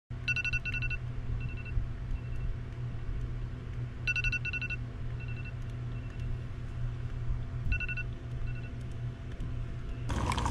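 Electronic alarm beeping: a quick pair of beeps followed by a few fainter ones, the pattern repeating three times about every four seconds, over a steady low hum.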